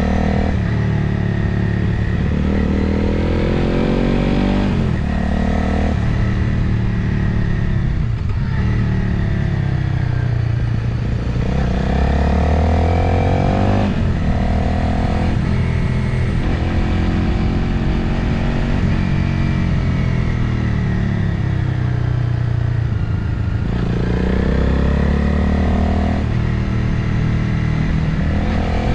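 Motorcycle engine under way, its pitch repeatedly climbing and dropping as the rider accelerates, shifts gear and eases off, with wind rushing over the on-bike microphone.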